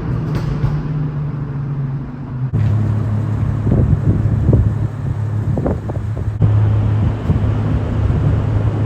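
Car engines idling with a steady low rumble. The sound changes abruptly twice, and a few short, sharper sounds come in the middle.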